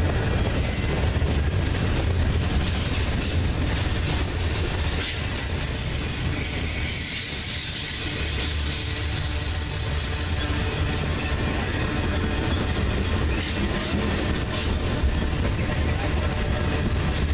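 Freight train cars rolling past on the rails: a steady, heavy low rumble with wheel-on-rail noise, easing slightly about seven seconds in.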